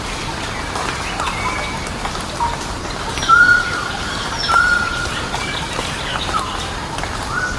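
Wild birds calling in forest: a clear whistled note held about half a second, repeated three times, among shorter chirps and sweeping calls, over a steady background hiss.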